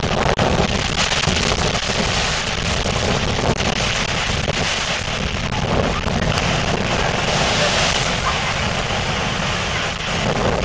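Storm wind buffeting the microphone in a loud, steady rush, with the sea's surf mixed in.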